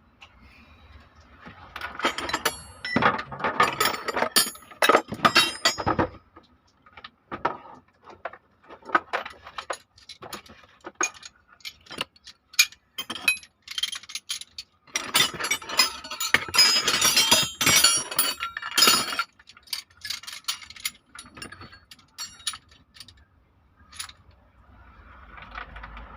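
Metal tools and engine parts clinking and rattling as an engine is taken apart, with two spells of dense rattling, the first about two seconds in and the second about halfway through.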